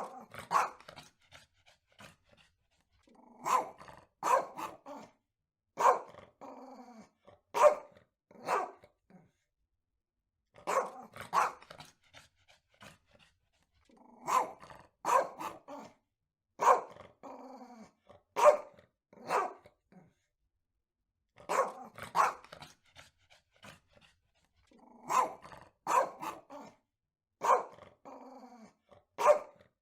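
Dog barking in short runs of two to four sharp barks, with pauses of a second or two between runs.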